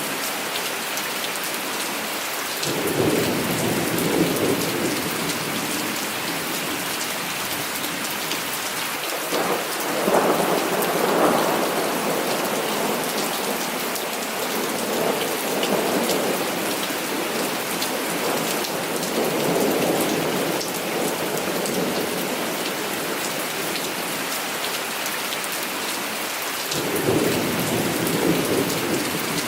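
Heavy rain falling steadily, with thunder rumbling several times: about three seconds in, a louder roll about ten seconds in, two softer ones after it, and another near the end.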